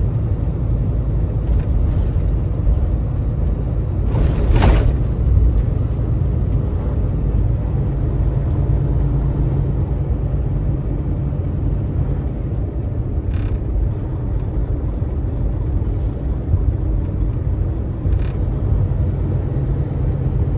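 Steady low engine and road rumble inside a semi-truck's cab on the highway, with a brief loud whoosh about four and a half seconds in and a few faint clicks later on.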